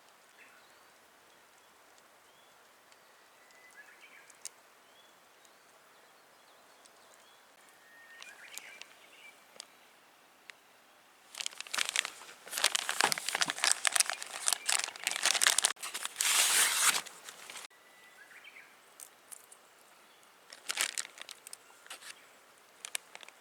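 Crinkling and rustling of crinkly material being handled, loud and lasting about six seconds from roughly the middle, with a few short crinkles again near the end. Faint short bird chirps are heard before it.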